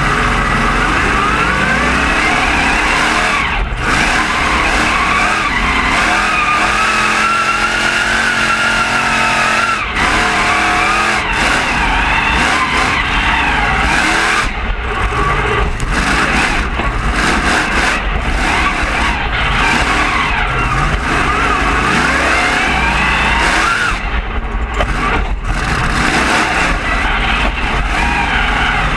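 Monster truck engine revving hard and continuously, its pitch repeatedly climbing and dropping as the throttle is worked, with a steadier, lower-pitched stretch partway through.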